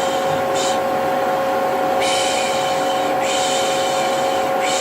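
Vacuum cleaner motor humming steadily, overlaid with a person's repeated 'pşşş' shushing, each shush about a second long, some short, recurring every second or two, as baby-soothing white noise.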